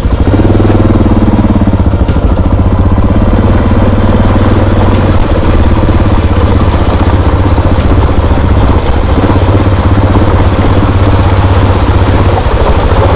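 Motorcycle engine running steadily in first gear, with a low, fast-pulsing note, heading into a deep river crossing.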